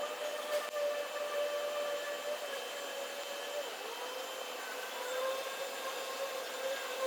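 A small motor whining steadily, its pitch briefly dipping and recovering about halfway through, with a couple of faint clicks.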